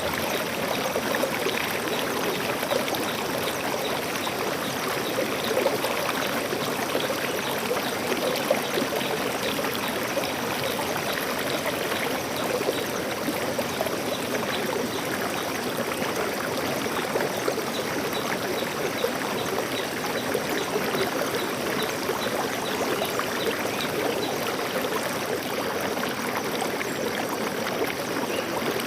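Stream water flowing and trickling over rocks, a steady rushing babble that doesn't change.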